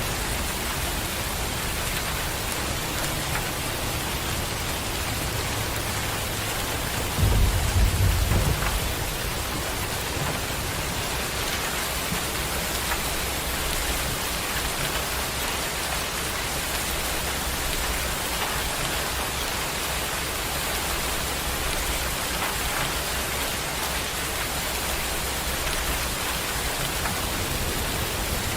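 Steady rain falling, an even hiss throughout, with one short low rumble of thunder about seven seconds in.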